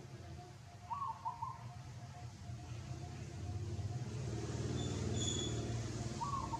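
A dove cooing, the same short phrase twice, about five seconds apart, over a low rumble like a passing vehicle that swells up toward the end and is the loudest sound.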